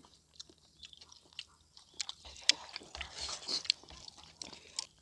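Close-up eating sounds: a person chewing, with sharp mouth clicks and smacks scattered through, sparse at first and busier in the second half.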